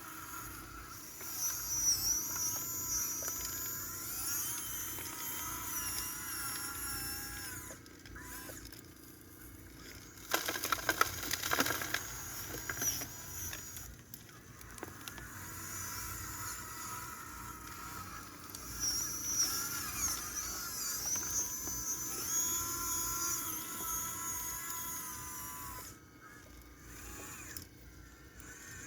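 Small electric motors of a Huina RC excavator and a homemade trommel whining at several pitches that shift and stop as the machines are worked, over a steady low hum. About ten seconds in, a loud burst of rattling and clatter lasts about two seconds.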